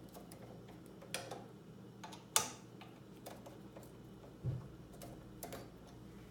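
Scattered clicks and knocks of metal and plastic parts being handled as a knife is unclamped from the jaws of a guided knife sharpener. The sharpest click comes about two and a half seconds in, and a dull thump about four and a half seconds in.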